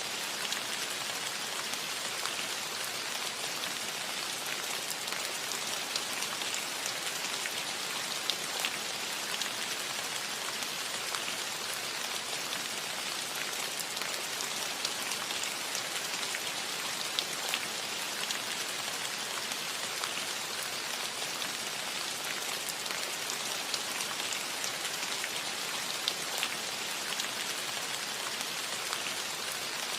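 Steady rain falling on a cottage roof: an even hiss with scattered sharper drop ticks.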